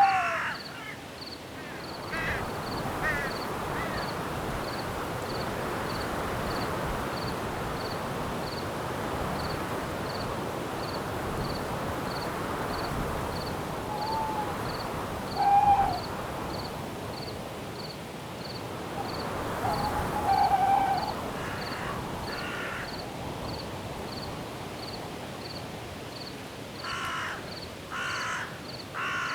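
Night forest ambience: wind in the trees and a cricket chirping about twice a second throughout. An owl hoots a few times in the middle, and crows caw harshly near the start and again near the end.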